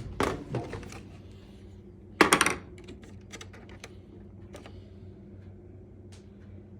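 Clicks and knocks of a dryer's wire-harness clip being worked loose by hand. There is a cluster near the start, the loudest short rattle about two seconds in, and lighter ticks after.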